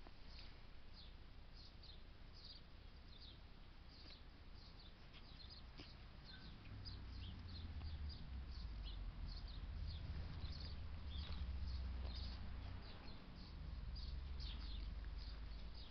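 Small birds chirping in the background, many short high chirps several a second, with a low rumble growing in about halfway through.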